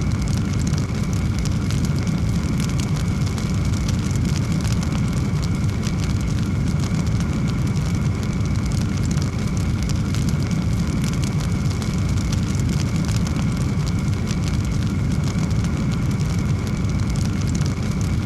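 Wood fire burning with a steady low roar under dense, rapid crackling.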